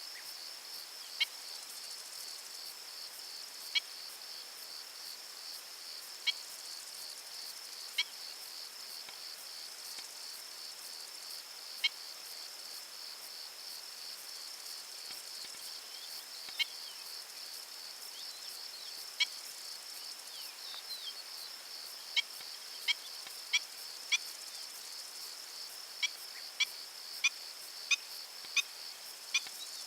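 A steady, finely pulsing high-pitched insect chorus, like crickets, with a bird giving short sharp single calls every few seconds that come faster, about one or two a second, near the end.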